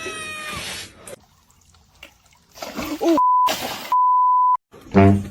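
Two flat electronic bleeps at one steady pitch, a short one and then a longer one about half a second later, with a brief hiss of noise between them: a censor bleep laid over a voice. Before them a voice-like sound trails off in the first second.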